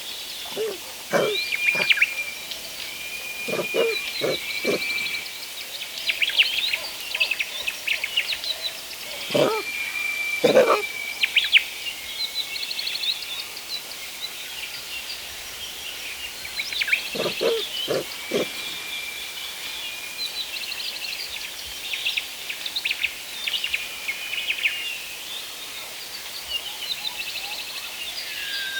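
Forest birds singing together, a mix of quick chirps, trills and a held whistle. Short low calls from another animal break in a few times, near the start, around the middle and again a little later.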